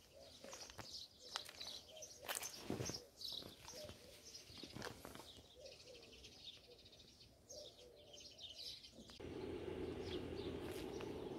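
Small birds chirping in short calls, with a few soft knocks, the strongest about two and a half seconds in. About nine seconds in, a steady low noise comes in under the chirps.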